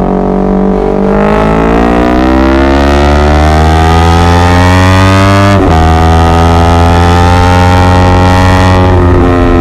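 Honda CBR250RR motorcycle engine pulling under acceleration, its note rising steadily for a few seconds, breaking sharply about halfway through on a gear change, then holding high and nearly steady, with another short dip near the end.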